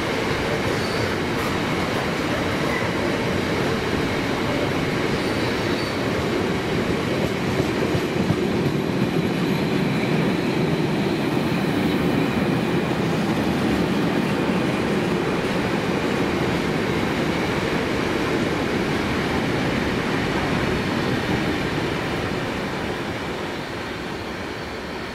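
Train passing: a long run of wagon wheels rolling over the rails in a steady rumble, dying away near the end.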